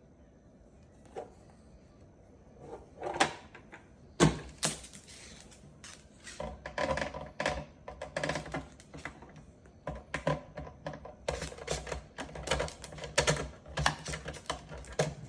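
Rapid, irregular clicking and tapping of a cockatoo's beak working at a toy truck. A few scattered clicks come first, then dense clicking from about halfway in.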